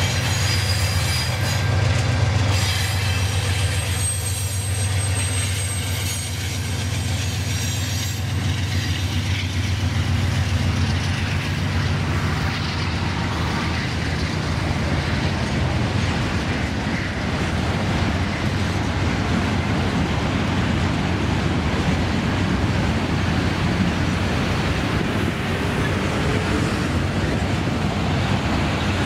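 Freight train rolling past: a low drone with high wheel squeal over the first several seconds, then the steady rolling noise of the wagons.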